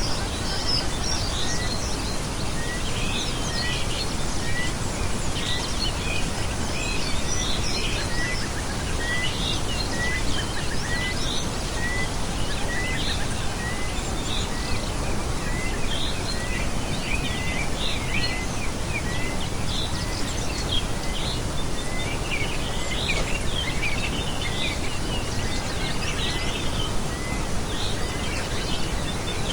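Several small birds chirping over a steady background noise, one of them repeating a short note evenly, about once every 0.7 seconds.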